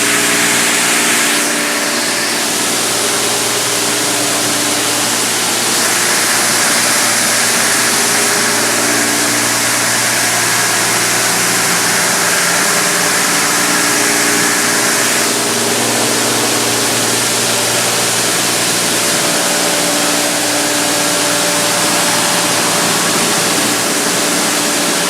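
Mark VII GT300 automatic car wash spraying water over a car, heard from inside the car as a steady rushing hiss over a low, even hum; the spray changes in strength a few times, about 1.5, 6 and 15 seconds in.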